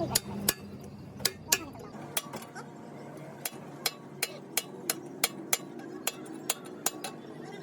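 Hammer striking metal in sharp, irregular taps, about two a second, each with a short ring, over a faint steady hum.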